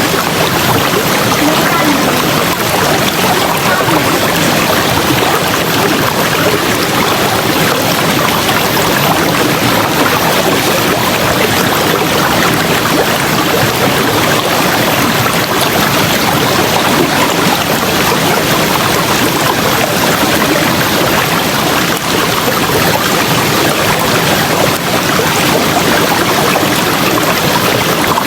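River water rushing and splashing over rocks, a loud, steady flow.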